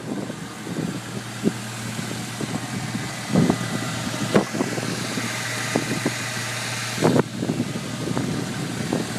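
Ford 3.8-litre V6, fitted with a Windstar intake manifold and dual exhaust, idling steadily, with a few short knocks over it.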